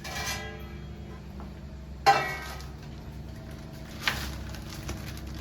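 Kitchenware clinking: two ringing strikes about two seconds apart, then a sharper click near the end, over a steady low hum.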